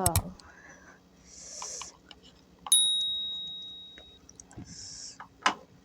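A single bright metallic ding about halfway through, struck once and ringing on as one clear tone that fades over about a second and a half. Short hissing breaths and small clicks of eating come before and after it.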